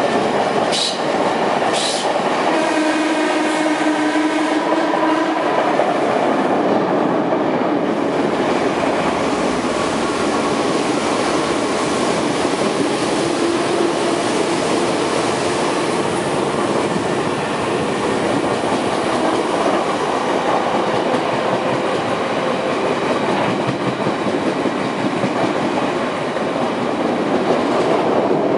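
Odakyu 1000 series electric train running at speed, heard from inside a passenger car: a steady rumble of wheels on rail. Two sharp clicks come about a second and two seconds in. A steady humming tone runs for about three seconds from near the third second, and fainter tones come and go later.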